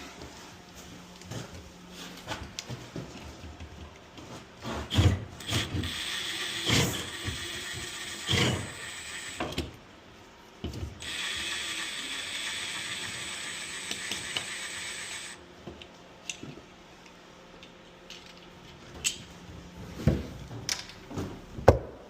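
Hand and power tool work: scattered clicks, ratcheting and knocks, with a steady high-pitched whir lasting about four seconds midway.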